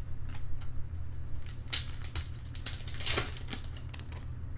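Trading cards and foil pack wrappers being handled: scattered light clicks and rustling, with two louder rustles, one a little before the middle and one about three seconds in.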